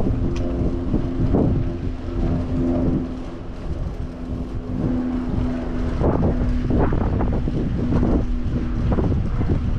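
Street traffic with the steady hum of a nearby motor vehicle, and wind rushing over the microphone, in stronger gusts from about six seconds in.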